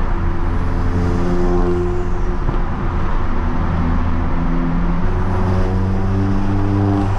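Peugeot car being driven hard through a road tunnel, heard from inside the cabin: a loud, steady engine drone with road noise, its tones shifting in pitch every second or so.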